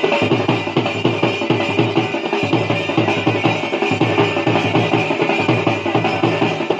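Bhaderwahi folk dance music with fast, steady dhol drumming.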